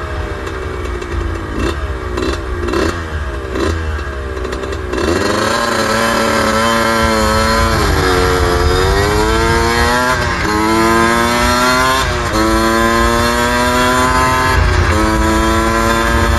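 Suzuki RM125 125 cc two-stroke single-cylinder engine under way: for the first few seconds a run of quick throttle blips whose pitch falls after each, then the bike pulls through the gears, the note climbing in each gear and dropping at upshifts about halfway through, again a little later and once more near the end. Wind rumble on the microphone underneath.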